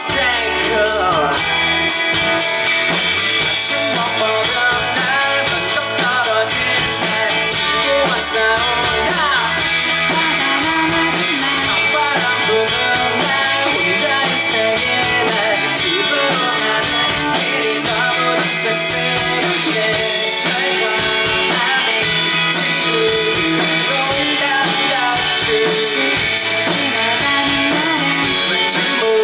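Live rock band playing an up-tempo song: guitars, bass and drums with a steady beat.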